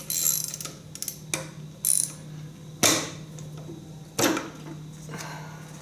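Hand tools working on the tractor: about six separate sharp metal clanks and clicks, typical of a ratchet wrench and tools against steel, over a steady low hum.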